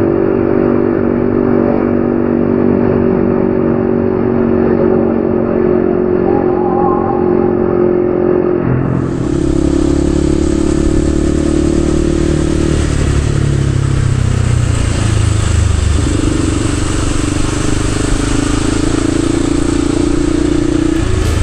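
Yamaha XSR155's single-cylinder engine running under way, its note holding steady at first. About nine seconds in the sound changes: the engine note drops and later picks up again.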